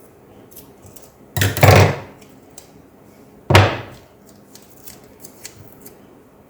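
White tape being handled while pieces are cut and stuck down as insulation: two short rasping rips about two seconds apart, then a few light clicks and taps.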